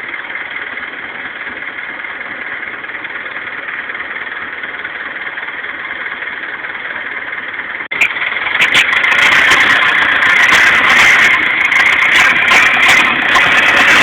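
Boat engine running steadily. About eight seconds in the sound cuts and comes back louder.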